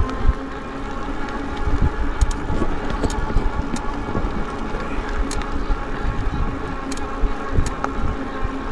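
Electric bike motor whining at a steady pitch while riding, over wind rumbling on the microphone, with scattered light clicks and rattles.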